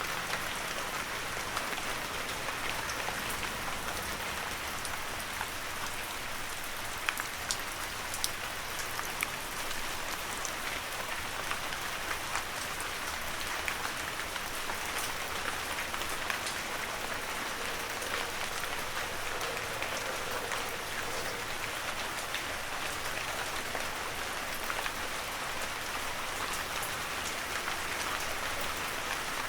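Heavy rain falling steadily in a forest, a dense even hiss with individual drops ticking sharply here and there.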